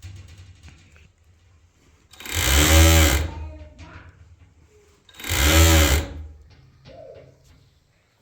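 Electric sewing machine run in two short bursts of about a second each, its motor pitch rising as it speeds up and falling as it slows, with a low hum between bursts.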